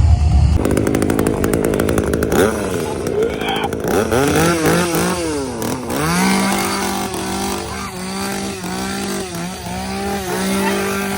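Chainsaw engine revving: a fast rattling idle at first, then the pitch swinging up and down a few times, then held high with brief dips.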